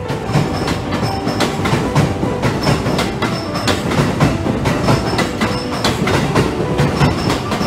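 Electric commuter train running alongside a station platform, its wheels clacking steadily and regularly over the rail joints as the cars roll past.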